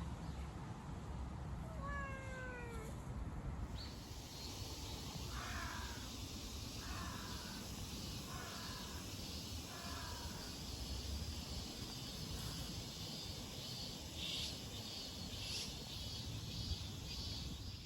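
Cat meowing: one call falling in pitch about two seconds in, then four shorter calls about a second and a half apart. A high, steady, faintly pulsing chirr runs underneath from about four seconds on.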